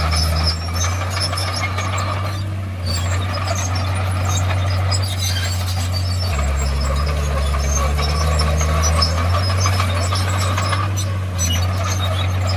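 Komatsu D51PX crawler bulldozer working: its diesel engine drones heavily, its pitch shifting up and down several times as the load changes. A steady squeal and rapid clanking from the steel tracks run over it.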